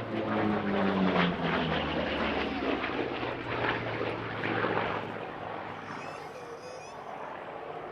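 Grumman Bearcat's Pratt & Whitney R-2800 radial engine and propeller passing by in a display, the pitch dropping as it goes past. It is loudest for the first few seconds, then fades as the aircraft draws away.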